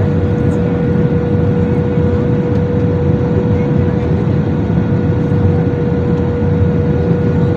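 Steady roar inside a jet airliner's cabin, engines and airflow, with a steady mid-pitched hum running through it.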